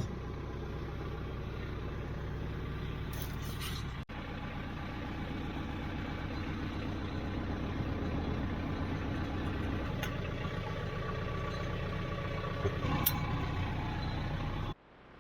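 Tractor diesel engine idling steadily. It breaks off for an instant about four seconds in and drops away suddenly near the end.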